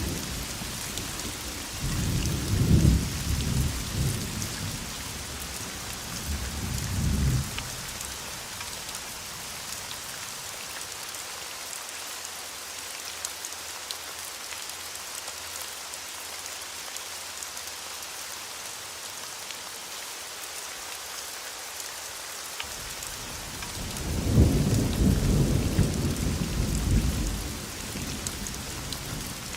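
Steady heavy rain falling, with rolls of thunder rumbling at the start, again around 6 to 7 seconds in, and a longer roll near the end.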